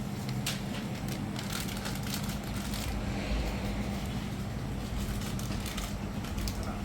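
A steady engine hum with a low rumble, with scattered light clicks and knocks over it.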